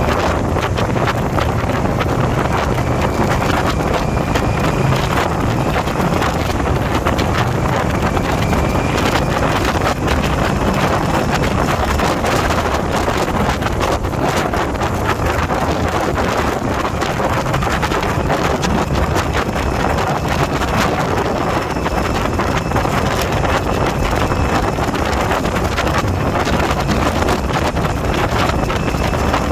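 Steady rush of wind buffeting the microphone on a moving motorcycle, with the motorcycle's engine running underneath.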